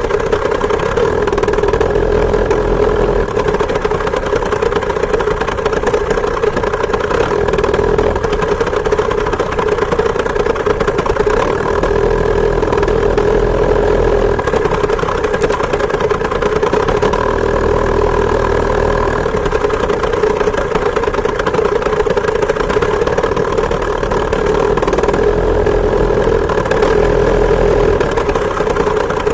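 Two-stroke chainsaw engine of a homemade moped running at a steady speed, close to the microphone. Low rumbling comes and goes every few seconds underneath it.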